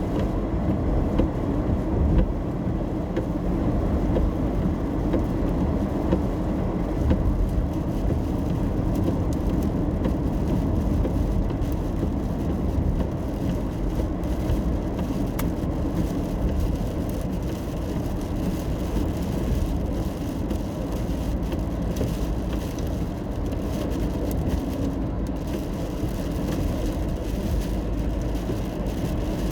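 Steady road and engine noise heard from inside a car cabin while driving in the rain, with faint ticks of rain on the car.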